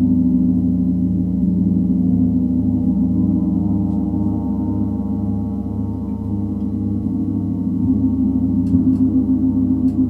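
Gong sounding in a sustained wash of overlapping low tones with a steady throbbing pulse, swelling a little louder near the end.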